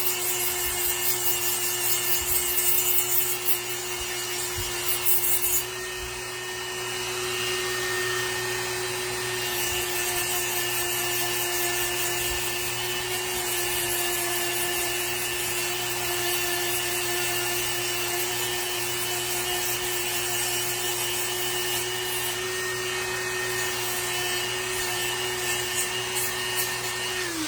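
A small high-speed electric power tool runs steadily while shaping wood, with rough scratching where it bites into the wood. It is switched off at the end and its pitch falls as it winds down.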